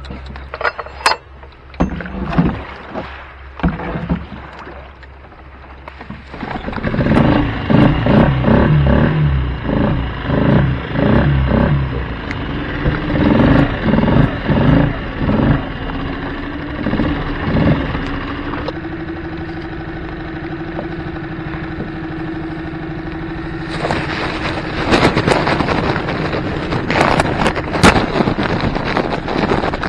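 Yamaha 2 hp outboard motor on a small boat. It runs unevenly in pulses, then settles into a steady drone about two-thirds of the way in. A rushing noise joins in the last few seconds.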